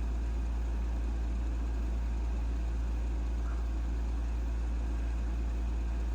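A steady low hum, deep and unchanging, with no other distinct sounds over it.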